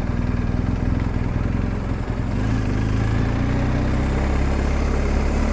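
BMW R 1250 GS Adventure's boxer-twin engine running while the bike is ridden along, over wind noise. The engine note rises gently from about two seconds in as the bike picks up speed.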